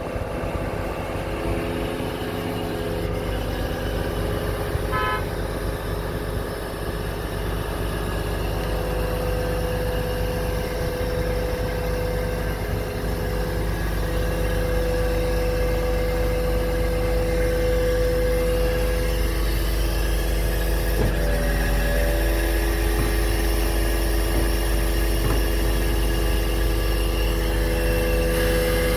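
Truck engine running steadily with the crane's hydraulics working, putting out steady whining tones that shift in pitch and switch every few seconds. A short run of quick beeps sounds about five seconds in.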